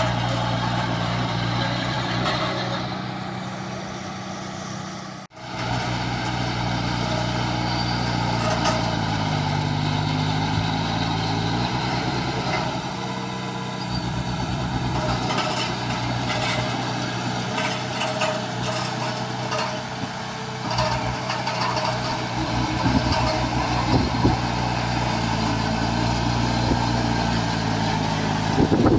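Heavy diesel engine of construction machinery running steadily, its pitch dipping and rising again about a third of the way through as it takes load. The sound cuts out for an instant about five seconds in.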